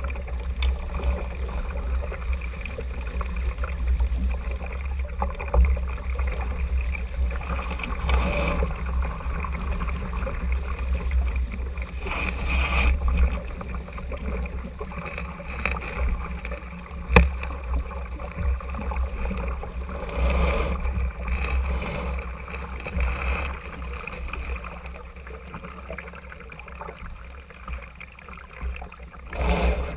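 Water washing and splashing against the hull of an RS Tera sailing dinghy under way, over a steady low rumble of wind on the camera's housing. Now and then a louder splash, and a single sharp knock around the middle.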